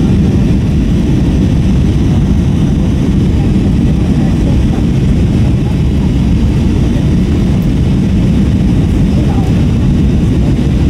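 Steady, low cabin noise of an Airbus A321-232 in flight, from its IAE V2500 engines and the airflow over the fuselage, heard from a window seat aft of the wing.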